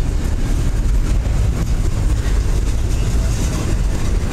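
Double-stack container train's well cars rolling past: steel wheels on the rails make a loud, steady rumble.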